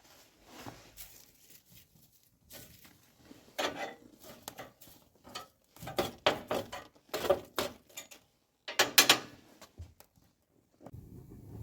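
Irregular handling noises: short clusters of scraping and rattling a few seconds apart, the loudest about nine seconds in. A steady rushing noise starts about a second before the end.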